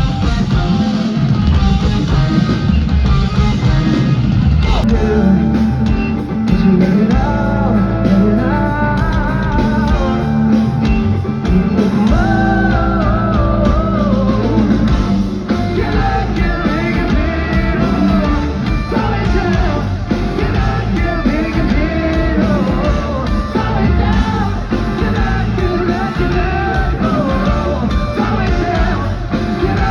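Rock band playing live with electric guitars, drums and sung vocals, as heard from the crowd at a concert.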